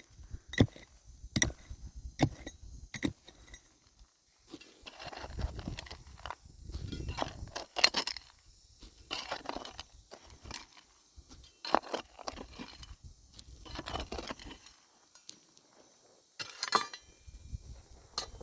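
Work noises from handling wood: sharp knocks about once a second at first, then scraping and rustling with scattered knocks, and one more sharp knock near the end.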